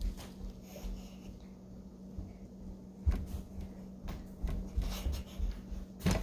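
Soft tabletop handling noises: a few dull knocks, about three seconds in and again around five seconds, with light rubbing, over a steady low hum.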